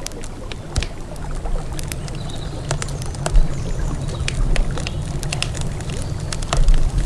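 Wood campfire crackling with frequent irregular snaps and a few louder pops, over the steady low rush of a flowing river.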